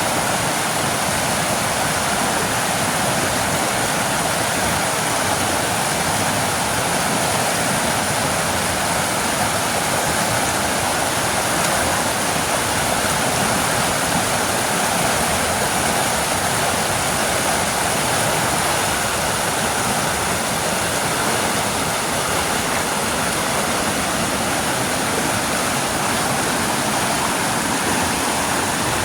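Waterfall: falling water rushing in a loud, steady, unbroken hiss.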